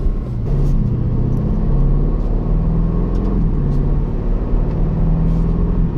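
2025 Aston Martin Vantage's twin-turbo V8 running under way, its low engine and exhaust note climbing in pitch, dipping briefly a little over three seconds in, then climbing again.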